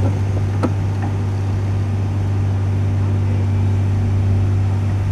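A heavy machine's engine runs steadily at a constant speed with a deep, even hum. There is a single sharp click about half a second in.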